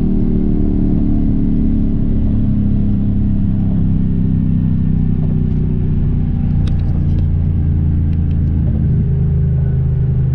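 Dodge Challenger R/T Scat Pack's 392 Hemi V8 heard from inside the cabin at highway speed: a loud, steady engine and exhaust drone whose revs slowly drop across the stretch.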